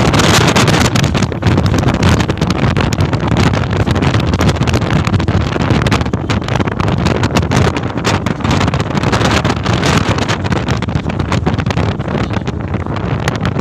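Wind buffeting the microphone over the steady rumble of a moving truck.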